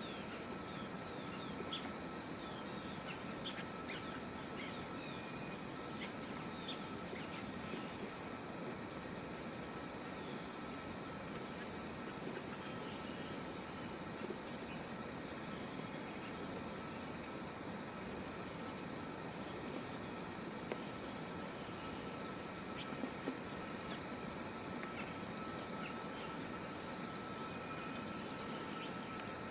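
Forest insects droning steadily at several fixed pitches, with short high chirps scattered through, over a steady background hiss.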